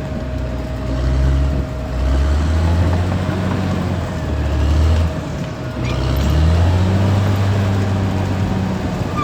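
Caterpillar D6R XL bulldozer's diesel engine running as the machine works, its low note swelling and easing a few times, with a dip about two seconds in and another around five to six seconds. A thin steady whine sits above it.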